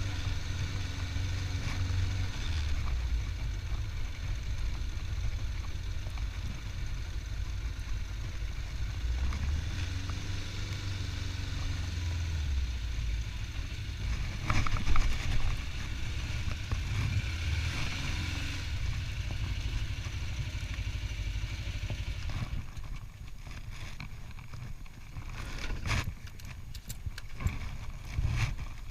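Motorcycle engine running during a ride, its note shifting up and down with the throttle. The engine sound drops lower past the middle, with a few sharp clicks or knocks near the end.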